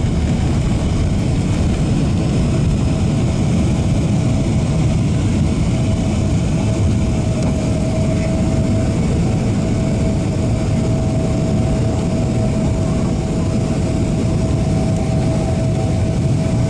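Boeing 777-300ER cabin noise: the steady, even roar of its GE90 turbofans and the airflow, with a thin steady whine running through it.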